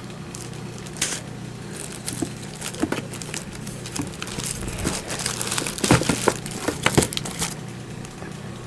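Packaging rustling and crinkling as a boxed electric water pump is unpacked, with irregular crackles and sharp rustles that are busiest from about five to seven and a half seconds in.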